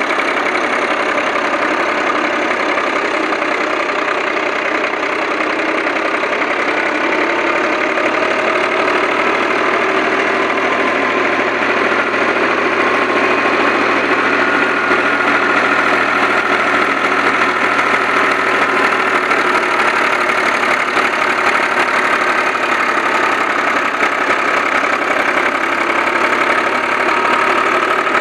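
Millat tractor engine driving a wheat thresher, the two running steadily together with a constant mechanical hum and whine. It grows slightly louder about halfway through.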